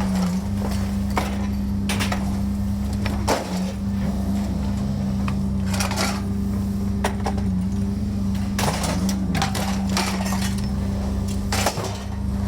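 A steady low mechanical hum, like an engine running, with irregular sharp clanks and knocks over it.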